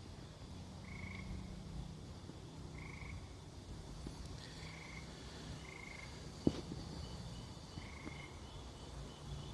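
Frogs calling: short trilled calls repeating every second or two, with fainter, quicker chirps from another caller in the second half. A single sharp click comes about two-thirds of the way through.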